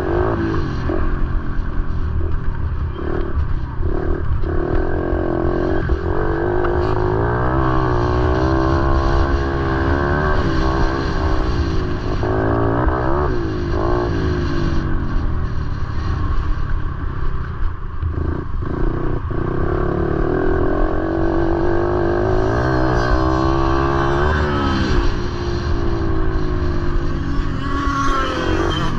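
Motorcycle engine running steadily, its pitch climbing and dropping again several times as the throttle is opened and closed, over a constant low rumble.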